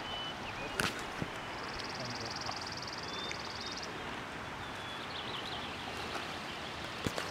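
Steady outdoor hiss on an open mountainside, with a bird's high, rapid trill lasting about two seconds and a few short chirps afterwards. A couple of faint knocks from handling the camera.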